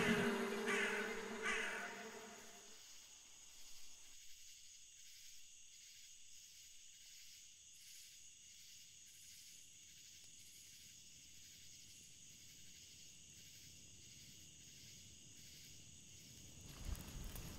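A bird cawing a few times near the start while a low music drone fades out, then quiet forest ambience with faint, evenly pulsing high insect chirring.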